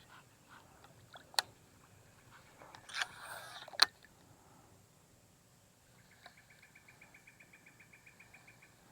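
An insect chirping in a fast pulsed trill, about seven pulses a second, starting about six seconds in. Before it come two sharp clicks, about a second and a half and just under four seconds in, with a short rushing noise just before the second, louder click.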